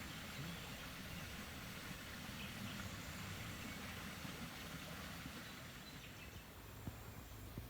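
Steady outdoor ambience: an even hiss with a low rumble underneath, and a couple of light clicks near the end.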